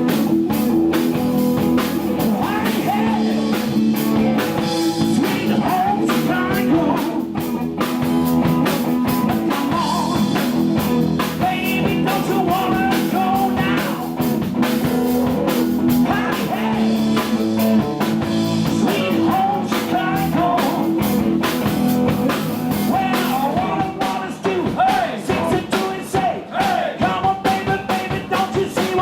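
Live blues-rock band playing: electric guitar with bent, wavering notes over a drum kit.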